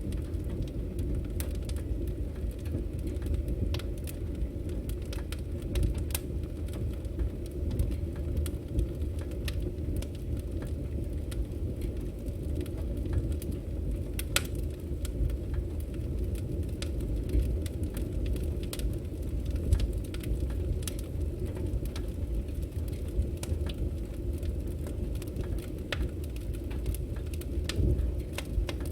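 Firewood burning: a steady low rumble of the flames with frequent sharp crackles and pops of the burning wood, a few of them louder than the rest.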